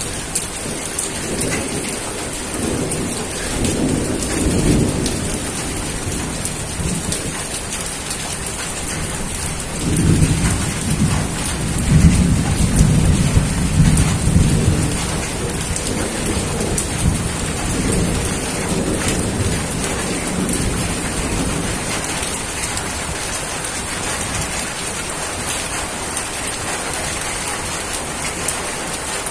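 Steady rain hissing down, with rolling thunder rumbling underneath. The thunder swells about ten seconds in and rumbles for several seconds before easing back.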